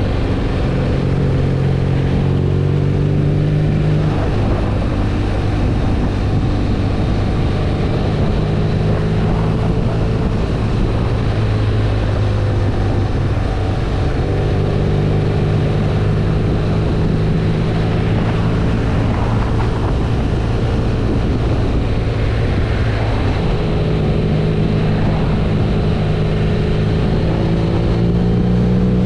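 BMW R nineT's air/oil-cooled boxer-twin engine running under way at a steady cruise, its note dropping and rising a few times.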